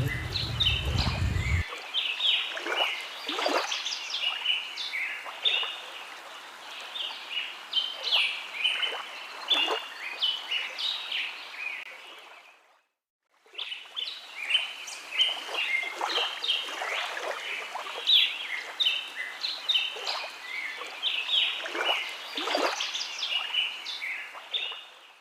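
A flock of birds chirping and calling: a dense, busy chatter of short, high calls. A low rumble underneath stops abruptly a second or two in. The chatter fades out briefly about halfway through, then comes back.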